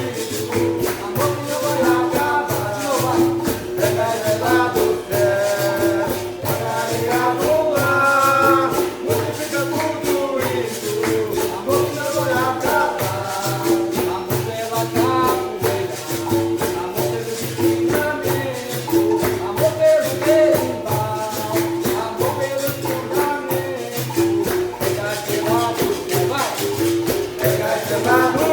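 Capoeira music: a berimbau's repeating notes with its caxixi rattle and a pandeiro keeping a steady beat, under group call-and-response singing.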